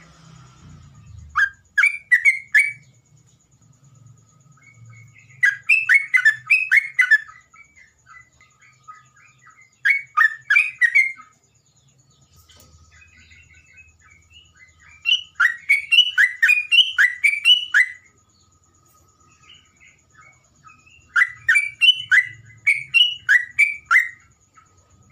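A songbird singing in five separate phrases a few seconds apart, each a quick run of repeated rising chirped notes.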